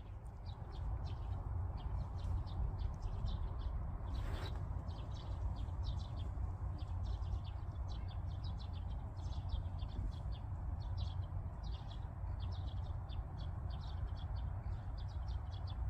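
Small birds chirping in quick, repeated short notes, over a steady low rumble.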